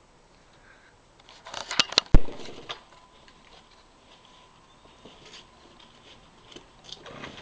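Clattering handling noise with one sharp, loud knock about two seconds in, followed by faint scattered clicks.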